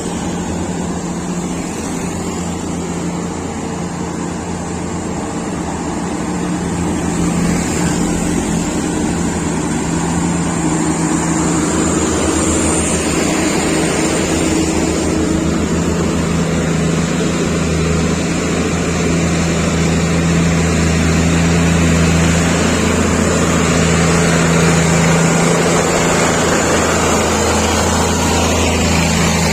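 Scania container truck's diesel engine running steadily under load, growing louder after about seven seconds.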